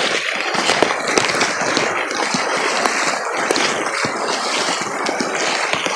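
Steady rushing water with scattered small taps throughout: storm rain and floodwater around a vehicle.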